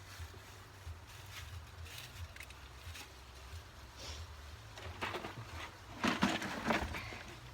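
Wind buffeting the microphone as a low gusting rumble, with scattered light rustling and clicks of hands working among plants and soil, and a louder rustle about six seconds in.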